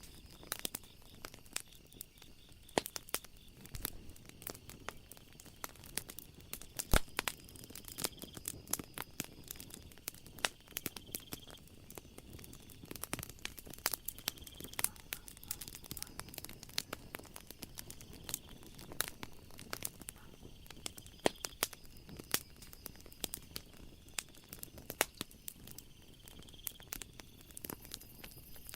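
Wood fire crackling: irregular sharp pops and snaps, several a second, the loudest about seven seconds in. Under it runs a faint, steady high trill of night ambience.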